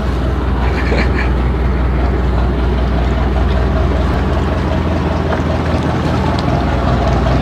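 A boat's PS100 diesel engine running steadily under way with a loud, even low drone.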